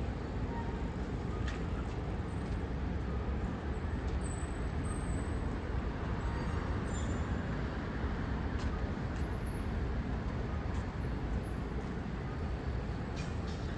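Steady city traffic noise, an even rumble of passing road vehicles with no single event standing out.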